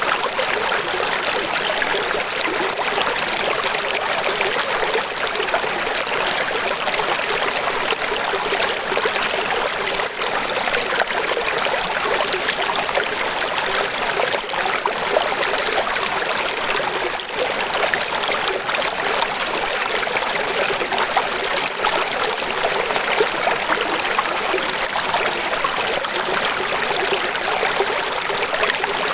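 Running water: a steady, even rush of flowing water that does not change.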